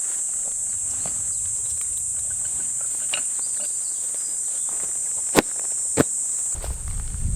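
Steady, high-pitched chorus of insects, with two sharp clicks about five and a half and six seconds in, and a low rumble coming in near the end.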